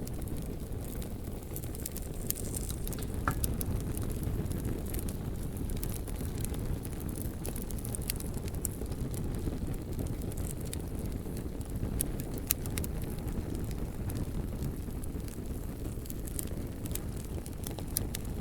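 Campfire burning: wood crackling with scattered sharp pops over a steady low rumble.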